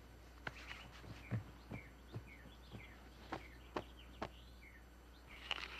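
Faint birds chirping in short calls, with a scattered series of light knocks and taps.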